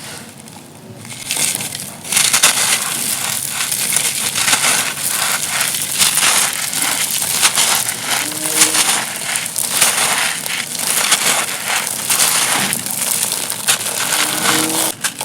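Dry, dusty stony material crumbling and crushing in a dense, continuous crunch of many fine crackles, starting about a second in and going full from about two seconds on.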